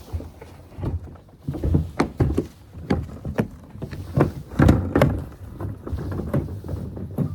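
A string of irregular knocks and thuds, a dozen or so at uneven spacing, the loudest a little before the five-second mark, over a low rumble.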